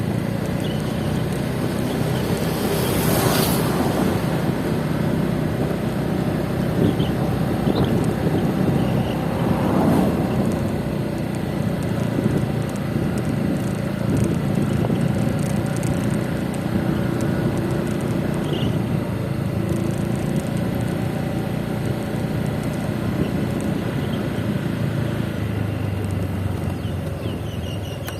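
Motor scooter running at a steady cruise on the road, its engine hum mixed with wind and road noise; the noise swells louder twice, about three and ten seconds in.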